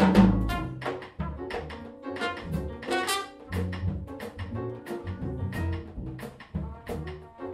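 Big-band jazz in full swing: a trumpet solo over a walking double bass and drums, with cymbals striking throughout.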